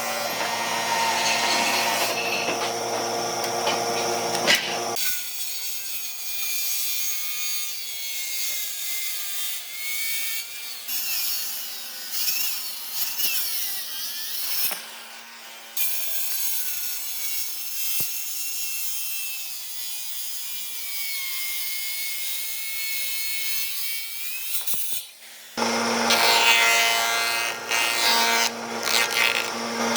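Power tools working wood, in several short stretches that change abruptly about five, fifteen and twenty-six seconds in.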